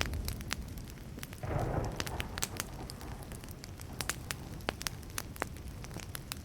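Burning wood crackling steadily with many sharp little pops over a low rumble. A short, louder rushing surge comes about a second and a half in.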